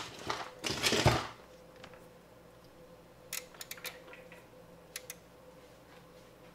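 Multimeter test leads and probes rustling as they are handled, then a quick run of sharp clicks about three seconds in and two more near five seconds from the Keysight bench multimeter as it is set to DC voltage, over a faint steady hum.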